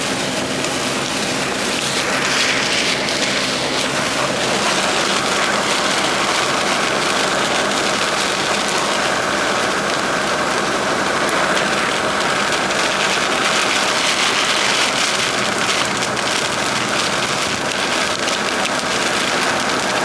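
Heavy rain on a semi truck with its engine running: a steady, even wash of rain noise over a low engine hum.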